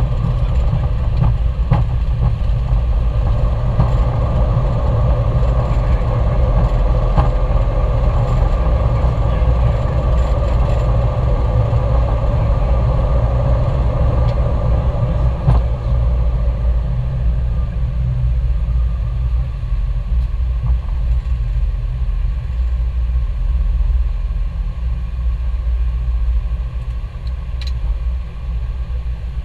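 Airbus A321 engine and airframe noise heard inside the cockpit: a loud, steady low rumble that eases slightly near the end.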